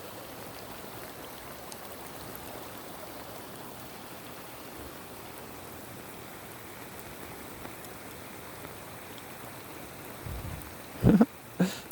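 Steady hiss of rain falling. Near the end come a few loud, sudden thumps.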